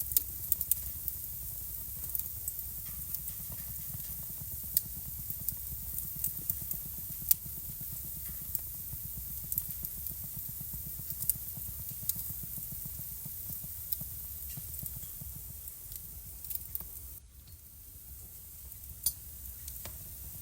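Wood fire burning in a home fireplace: many sharp, irregular crackles and pops over a steady low rumble and hiss of the flames. The level dips briefly near the end.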